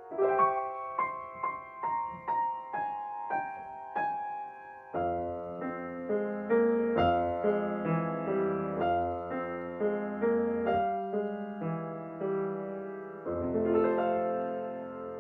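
Solo piano or electric keyboard playing a slow, soft ambient piece: single notes about twice a second at first, then fuller chords with a low bass line from about five seconds in, with a last chord fading near the end.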